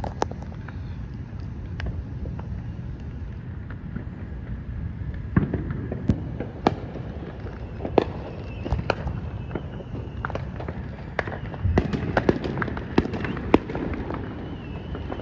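Many fireworks going off at a distance: irregular sharp pops and cracks, coming thicker in the second half, over a constant low rumble.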